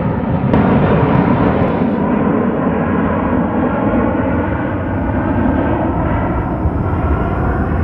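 Airplane taking off, engines at takeoff power: a loud, steady rumble with a faint whine in it, growing a little louder about half a second in.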